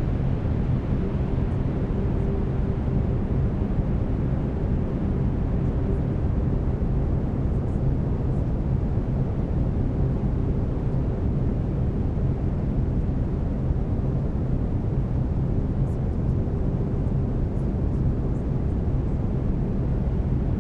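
Steady brown noise, a deep even hiss heaviest in the bass. A faint steady tone of the binaural-beat track sits underneath it.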